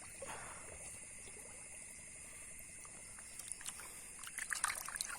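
Water trickling and splashing in shallow water, with a flurry of sharper splashes near the end. A steady high-pitched chorus of night insects runs underneath.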